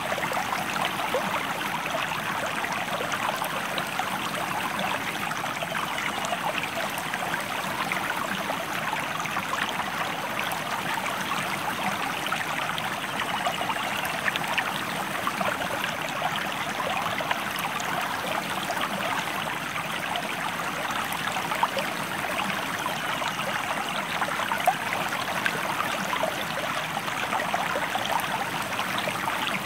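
A stream flowing over rocks: a steady babbling rush of water, dense with small splashes and trickles.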